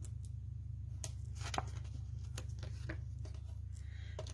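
Scattered light ticks and rustles of paper and cardstock being handled during card-making, over a steady low hum.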